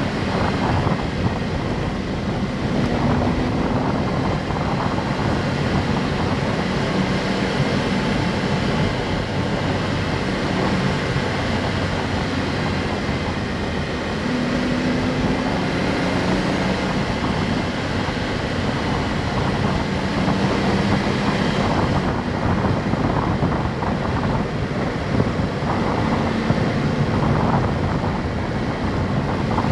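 Honda S660's turbocharged three-cylinder engine pulling under way, over steady road and wind noise; its note rises in short stretches several times as it accelerates through the gears.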